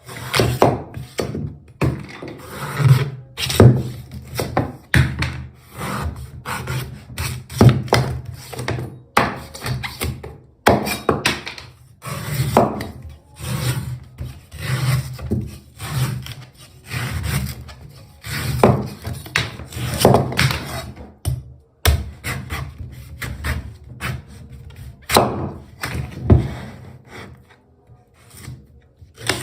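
A yellow coconut being hacked and scraped open with a blade: repeated irregular knocks and thunks on the husk and shell, with rasping scrapes between the strikes.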